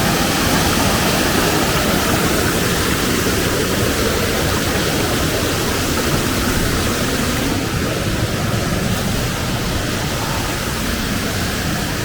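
Waterfall pouring close by, a steady rush of water with no break.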